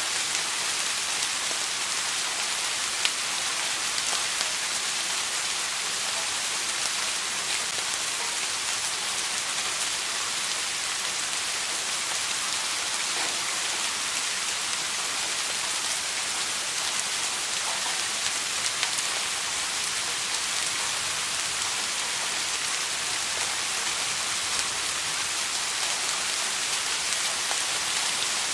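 Steady rain falling on a surface, a dense even hiss with fine scattered drop ticks and one sharper drop about three seconds in.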